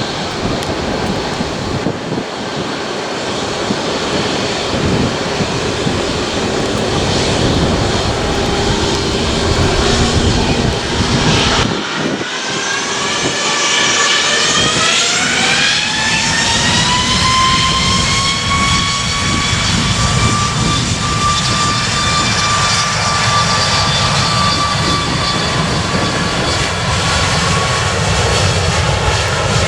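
Jet airliner's engines running with a steady roar. About halfway through, their whine climbs steeply over several seconds and then holds at a high pitch, as the engines spool up to takeoff power.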